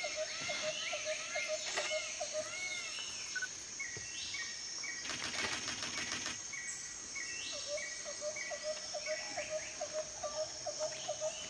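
Forest birds calling: a fast run of short low notes at the start and again in the second half, arching whistles, and a series of flat higher-pitched notes, with a short rapid rattle about five seconds in. A steady high-pitched hiss runs under them.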